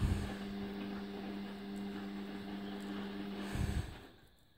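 Steady electrical hum with a few overtones, stopping suddenly with a low thump about three and a half seconds in.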